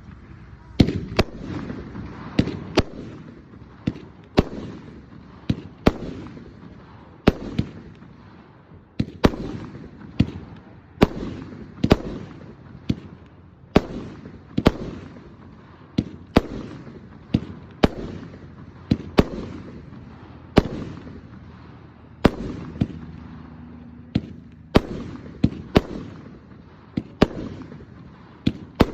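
A 30-shot, 500-gram consumer fireworks cake firing: shells launch and burst one after another about once a second, each sharp bang trailing off before the next.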